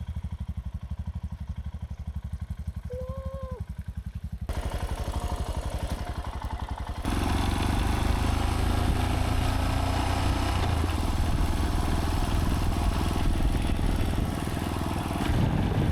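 Royal Enfield Himalayan 411's single-cylinder engine idling with an even low thumping beat. After abrupt cuts, the motorcycle is heard being ridden, its engine running under a steady louder rush of wind and road noise.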